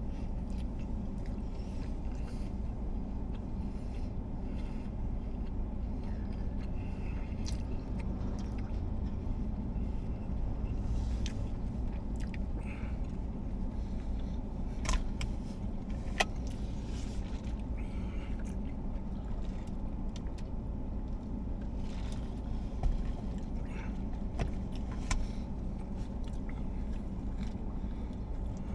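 Steady low rumble of an idling car engine, with a faint steady hum and a scattered handful of small sharp clicks and crinkles.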